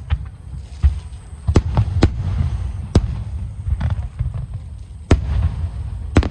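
Aerial fireworks bursting: about seven sharp bangs at uneven intervals, the loudest just after five seconds, over a steady low rumble of booms.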